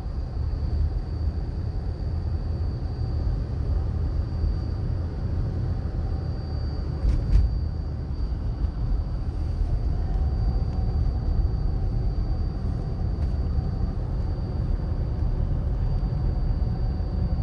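Car cabin road noise: a steady low rumble of tyres and engine while driving slowly on a snow-covered road, with a faint steady high whine over it. A single sharp thump comes about seven seconds in.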